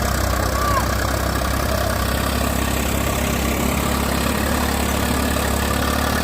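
Heavy diesel engine idling steadily, with an even, unchanging hum.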